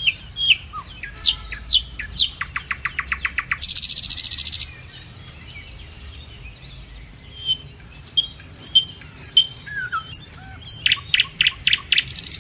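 Several birds calling: a string of sharp falling whistles, rapid trills and buzzy rattles, with short chirps between them.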